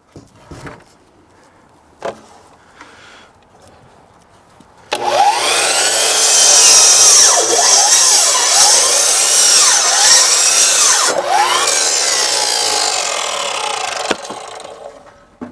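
Power saw cutting through wood. It starts abruptly about five seconds in, its pitch rising and falling as the blade loads, then winds down near the end. A few light knocks come before it.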